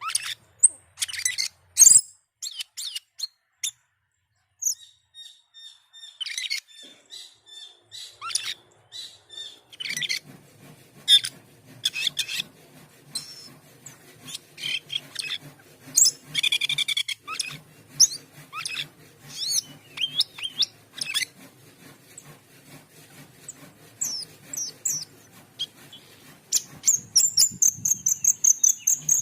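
Cucak keling singing a busy varied song of chirps, whistles and sharp calls, closing with a fast run of high repeated notes near the end.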